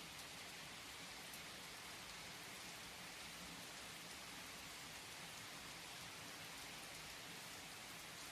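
Steady, soft rain falling, a continuous hiss with faint patter of drops.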